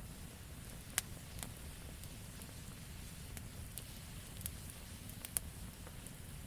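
Wood campfire crackling: scattered sharp pops, the loudest about a second in and a quick pair a little after five seconds, over a steady low noise of the burning fire.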